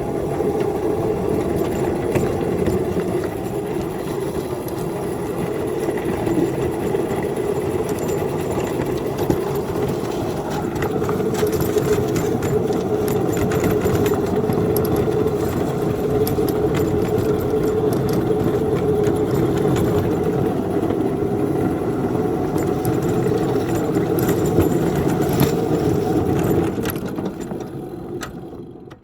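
An engine running steadily under load as a train pushes a snow plow along the track with its wings out. It fades away near the end.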